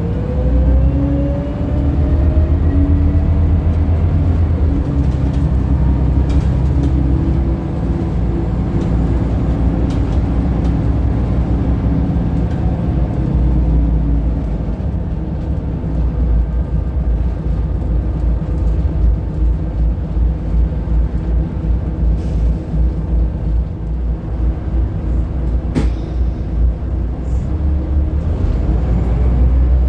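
Scania L94UB bus's diesel engine running under load with a rising whine as it pulls away, then a steady heavy drone that eases to a lighter, uneven run about halfway through, rising again near the end. A single sharp click about 26 seconds in.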